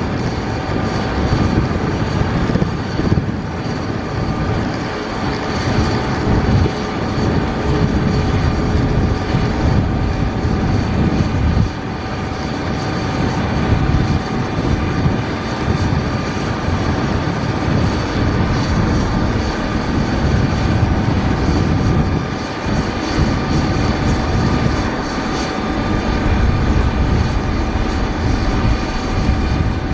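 Boeing 737-800's CFM56 turbofan engines running: a loud, steady rumble with a steady high whine over it.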